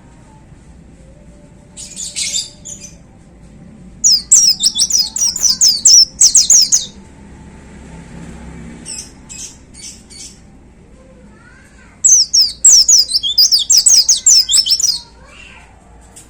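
A white-eye (pleci) singing: two loud, fast runs of high, sharp, downward-sweeping notes, each lasting about three seconds, with a few short chirps between them.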